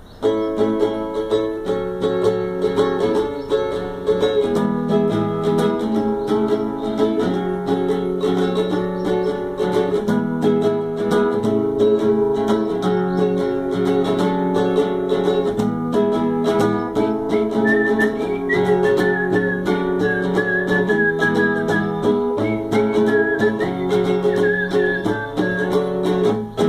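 A plucked string instrument being played, a continuous run of picked notes over bass notes that change every second or two.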